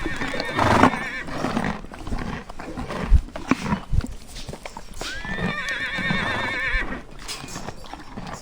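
A horse whinnying twice, each a long, quavering call, the first at the start and the second about five seconds in, with two sharp thumps in between.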